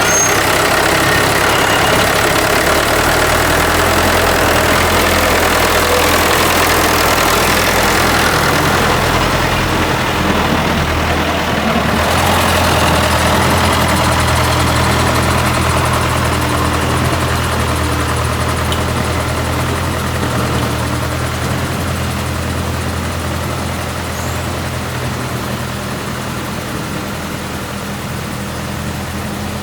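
Small motor of a mini rice threshing machine running steadily, a constant low hum with a hiss over it, easing off slightly in loudness toward the end.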